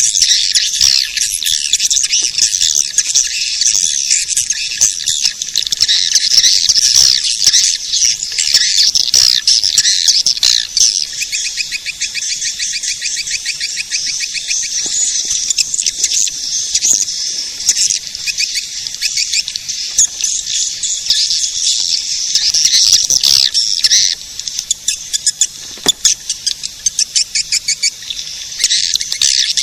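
A swiftlet lure recording: many swiftlets twittering and chirping in a dense, high-pitched, unbroken chorus. About a third of the way in there is a fast, even ticking trill, and near the end the chorus turns choppy and quieter for a few seconds. This is the call played to draw swiftlets into a nesting house.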